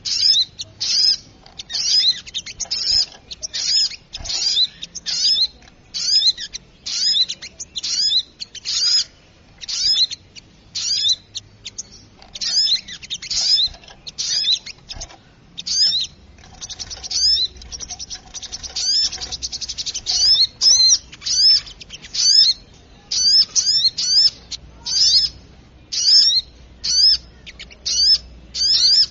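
Lure recording of a sogok ontong (sunbird) calling noisily: runs of sharp, high chirps repeated several times a second, with a denser, buzzier trill around the middle.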